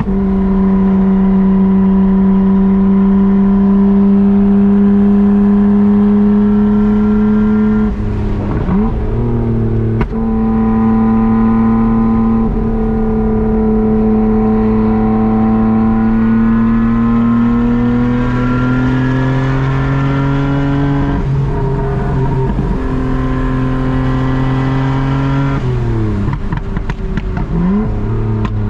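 Nissan Skyline R32 GT-R's twin-turbo RB26 straight-six on a Group A-style exhaust, driving under steady throttle with a deep, even exhaust note that climbs slowly in pitch. The note breaks and swoops about eight seconds in, again near ten seconds, and twice more near the end, like gear changes.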